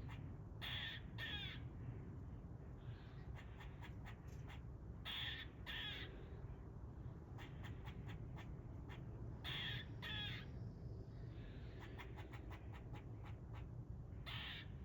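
Squirrel alarm barking from a tree: short harsh calls in pairs, repeated about every four and a half seconds, with faint quick chucks between them. This is the squirrel's alarm call, warning of a threat.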